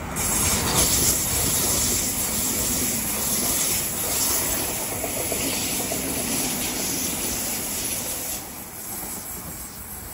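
Oscar H-set electric multiple unit passing close by at speed: a loud rush of wheel-on-rail rumble and hiss that starts abruptly and eases off about eight seconds in.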